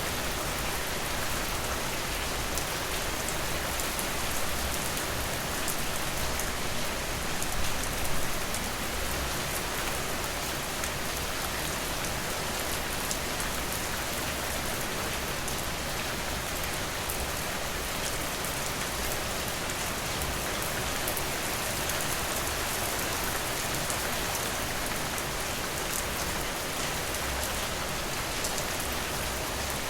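Steady rain: an even hiss of rainfall with fine, scattered drop ticks, slightly louder for a moment about eight seconds in.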